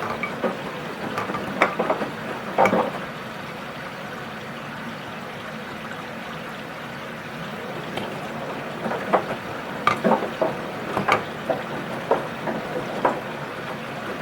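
Washing machine drum turning a load of laundry in water during the wash, with sloshing and splashing. The sloshing stops for a few seconds partway through, then starts again as the drum turns once more.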